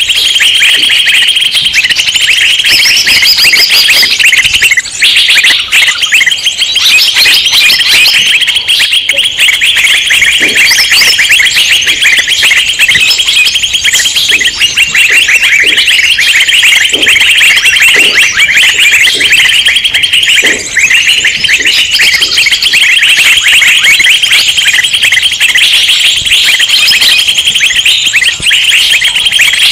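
Many small songbirds chirping and twittering at once in a dense, excited chorus of rapid high notes with no pause. It is a mixed 'noisy birds' lure recording of the kind used to draw wild small birds such as bulbuls.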